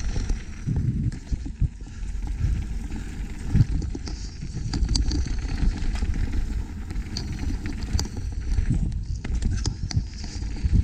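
Mountain bike riding down a dirt trail: tyres rumbling over rough ground with the bike rattling, clicking and knocking throughout.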